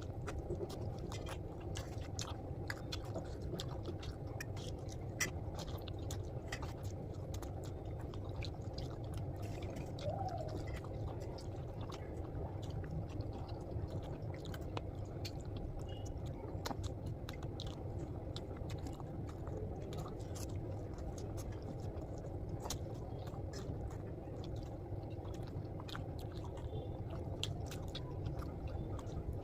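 A person chewing food close to the microphone, with frequent short crunches and wet clicks, over a steady low background hum.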